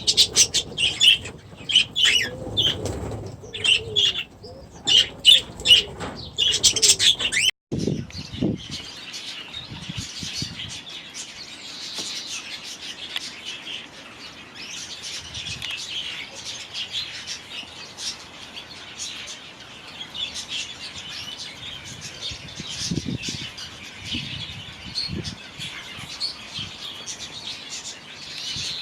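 Aviary budgies and cockatiels chattering and calling, with wings flapping. Loud separate calls for the first seven seconds or so, then after a sudden break a steady, busier chatter of many birds.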